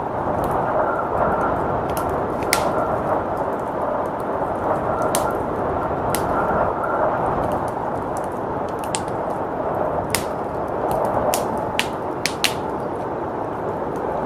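Wood fire crackling with irregular sharp pops over a steady rushing blizzard wind.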